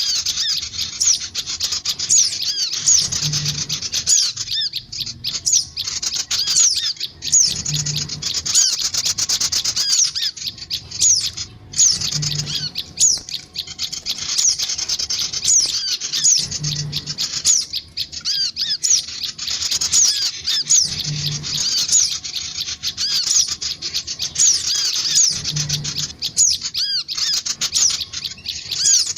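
Sogon birds (ciblek gunung) chirping noisily without pause in a looped bird-lure recording: rapid, high, hooked chirps packed close together. A soft low thump recurs about every four and a half seconds.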